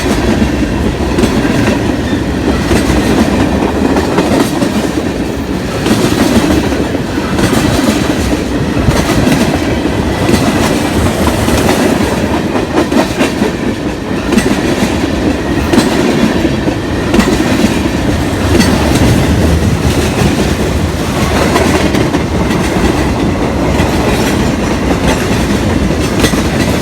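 Long freight train's cars rolling past close by, a loud steady rumble with the wheels clicking over the rail joints.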